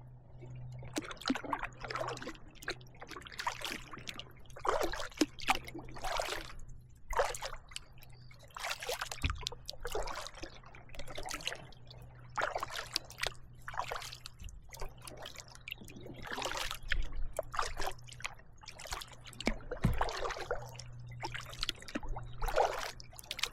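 Kayak paddle strokes in calm water: the blades dip and splash, with water trickling off them between strokes, roughly one stroke a second.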